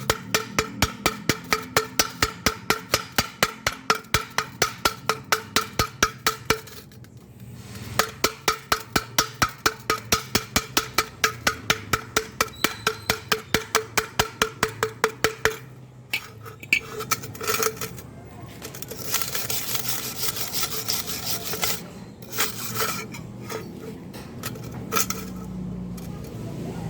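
Rapid hammer taps on thin steel square tube, about four to five a second, each with the same metallic ring, typical of chipping slag off a stick weld. The taps stop briefly about seven seconds in and resume. Later they give way to a few irregular knocks and a short scraping hiss.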